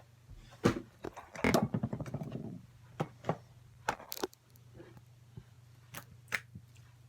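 Slime being squeezed and poked: scattered sharp pops and clicks, with a denser squelching crackle for about a second, starting about a second and a half in.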